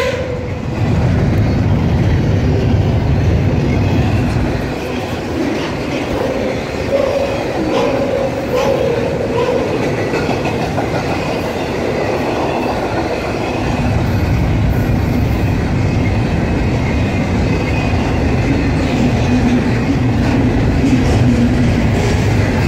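Double-stack intermodal container train rolling past at trackside: a steady rumble of the well cars' wheels on the rails. The low rumble eases for several seconds and then builds again.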